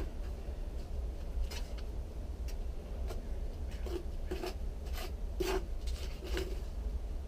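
A series of short scraping and rubbing strokes, about eight, spaced irregularly, over a steady low rumble.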